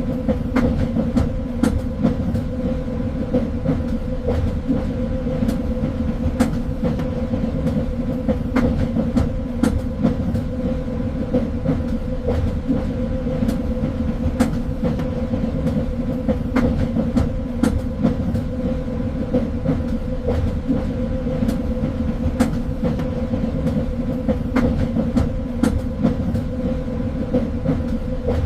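Train running along the rails: a steady low rumble with a constant hum and scattered light clicks and knocks.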